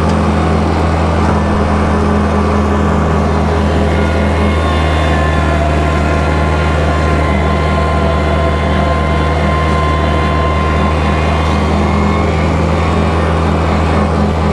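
Kubota tractor's diesel engine running steadily at constant speed while bush hogging, with a deep, even drone.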